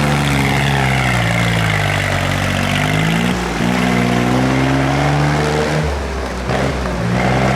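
Tractor engines running and revving, the engine note sinking slowly over the first three seconds, then picking up and holding steady, with a change in the sound about six seconds in.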